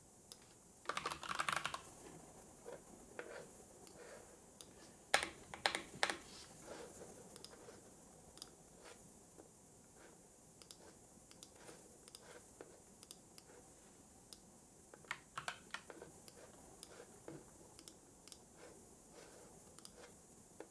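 Computer keyboard typing in a few short bursts with pauses between, and scattered single clicks in the gaps, over a faint steady hiss.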